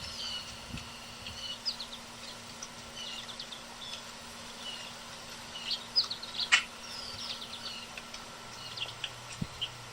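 Young downy woodpecker begging for food: a string of short, high chirps at irregular intervals, with one sharp click about six and a half seconds in.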